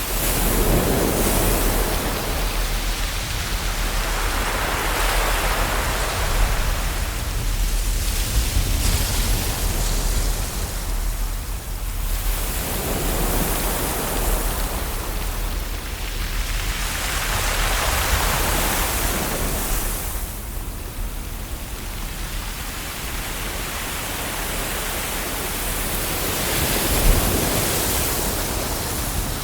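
Ocean waves washing onto a shore, the rushing noise swelling and falling back every few seconds over a steady low rumble.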